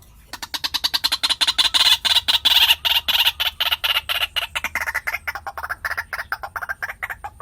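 White-breasted waterhen calling: a fast run of short, repeated notes, about ten a second, that sinks in pitch and grows weaker over the second half.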